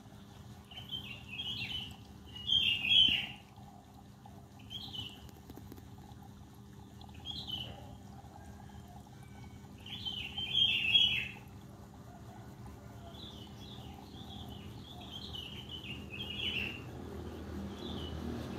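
Small birds chirping in short bursts every few seconds, over a faint steady low hum.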